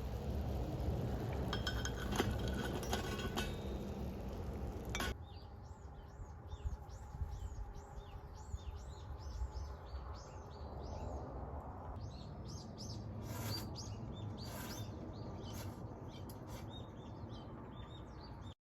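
A low rumble with a few light clinks, then, after a sudden cut, a small bird calling over and over in quick high chirps, two or three a second, until the sound stops abruptly near the end.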